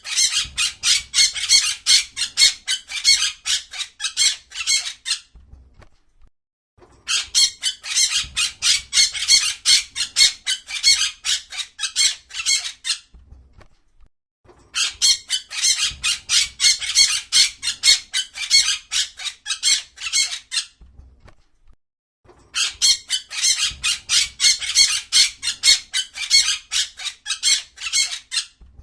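Parrot squawking in rapid runs of harsh calls, about four a second. Each run lasts five or six seconds, with short pauses between them, and the runs repeat almost identically.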